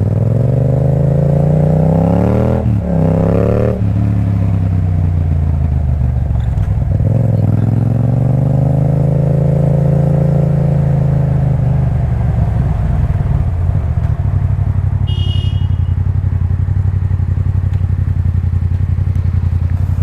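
Motorcycle engine revving up and dropping back sharply twice about three seconds in, rising and easing off again in the middle, then settling to a steady idle. A short high beep sounds about fifteen seconds in.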